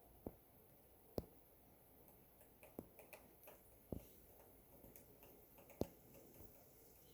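Sparse, sharp light clicks or taps against a faint background: five clearer ones at irregular gaps of one to two seconds, with a few fainter ticks between.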